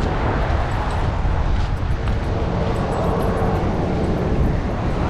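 Highway traffic passing: a steady rush of road noise, with a faint hum from a passing vehicle in the middle.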